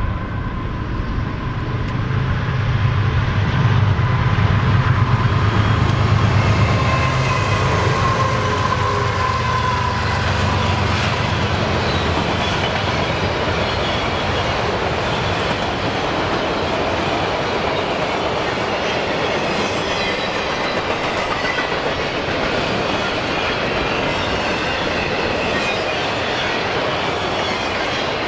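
CSX freight train passing at track speed. The diesel locomotives' engine drone swells and is loudest over the first ten seconds or so, then gives way to the steady rumble and clatter of freight cars rolling by, with light wheel squeal.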